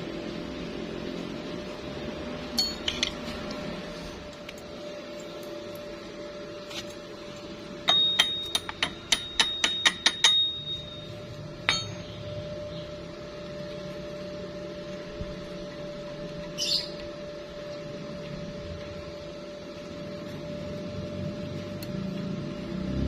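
About ten quick, sharp metallic strikes in a row with a ringing high note, roughly in the middle, over a steady hum; a few short chirps come and go.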